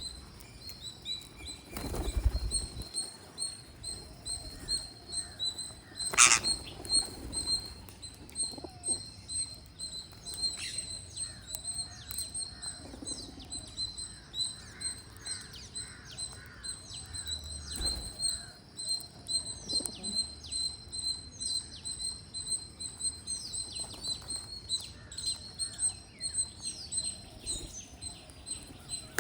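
Green parrots chirping and calling over and over while feeding: many quick high chirps and short falling squeaks, with a sharp click about six seconds in and a couple of low thumps.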